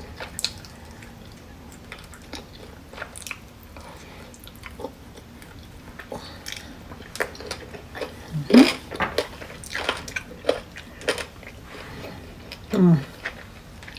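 A person chewing food close to the microphone, with scattered wet mouth clicks, and two short hummed vocal sounds, one rising partway through and one falling near the end.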